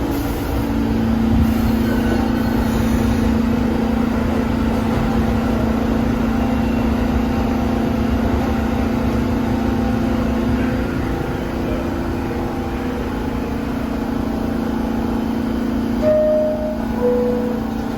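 New York City subway train at a station, a steady rumble with a humming tone, then a two-note falling door chime near the end, the signal that the doors are closing.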